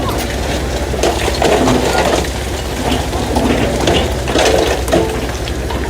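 Heavy construction machinery at work: a steady low engine drone under irregular crunching and clanking.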